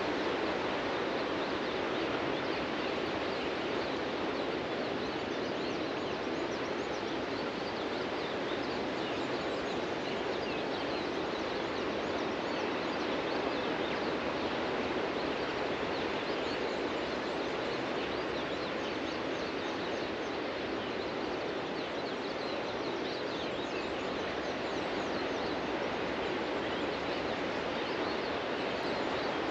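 Steady wash of ocean surf on a beach, with no single crash standing out, and many small birds chirping throughout.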